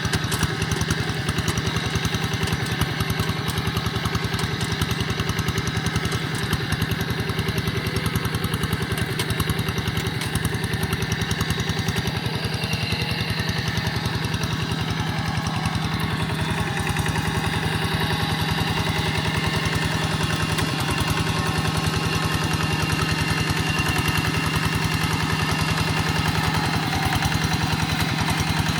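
Quick G1000 walking tractor's single-cylinder diesel engine running steadily with a fast, even chugging while it pulls a moldboard plough through wet soil.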